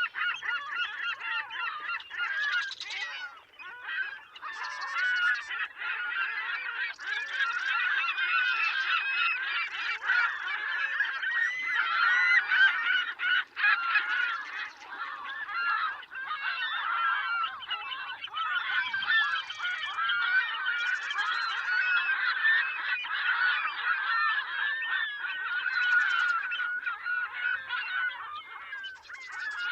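A large flock of birds calling, many honking calls overlapping without a break.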